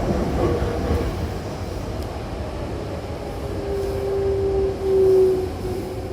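Hankyu Kyoto Line train heard from inside the car: steady running rumble, with a whining tone that comes in about halfway and is loudest around five seconds in.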